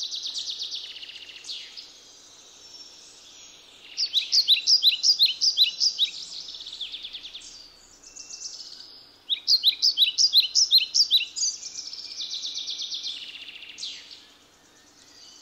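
Songbird singing: buzzy trilled phrases alternating with bursts of rapid, evenly repeated chirps, one burst about four seconds in and another about nine seconds in.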